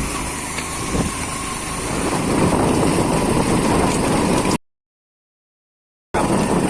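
Motorcycle engine running during an off-road ride, growing louder about two seconds in; the sound cuts out completely for about a second and a half near the end, then comes back.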